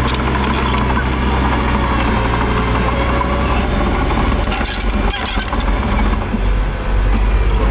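Diesel engine of heavy earthmoving machinery running steadily; its note changes about halfway through, with a short spell of clatter.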